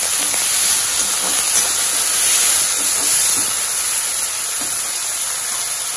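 Brinjal (eggplant) strips sizzling in hot oil and ghee in a metal kadai, a steady frying hiss, with a perforated steel ladle stirring through them.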